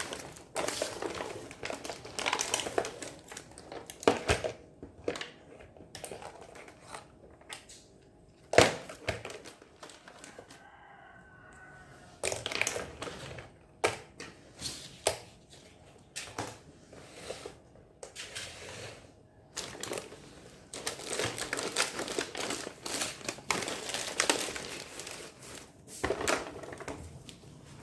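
Plastic packaging crinkling and rustling in irregular bursts as a miniature toy kitchen set is unpacked, with sharp clicks and taps of small plastic pieces being handled.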